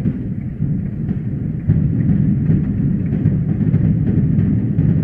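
Fireworks going off in quick succession, the booms of the bursting shells merging into a continuous low rumble that grows louder a little under two seconds in, with faint crackles on top.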